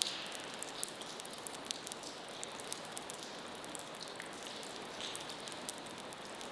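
Water dripping and pattering: scattered irregular drips and small ticks over a steady hiss.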